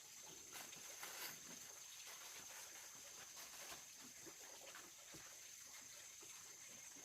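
Near silence: faint ambience with a steady high-pitched hum and scattered faint clicks.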